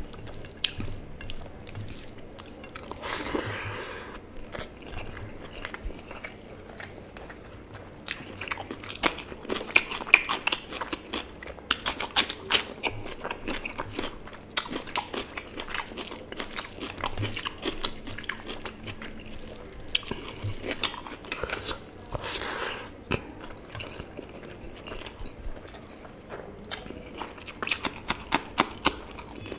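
Close-miked eating by hand: wet chewing and smacking of rice and mutton curry, with many short sharp mouth clicks in an irregular run. Near the end come denser crunchy bites into a raw green chilli.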